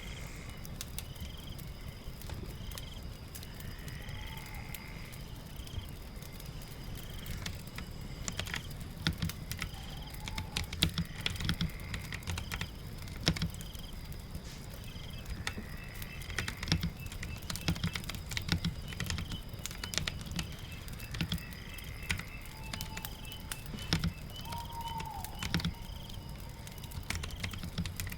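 Rain ambience with animal chirps repeating about once or twice a second and a rising call every few seconds, overlaid with bursts of keyboard typing clicks.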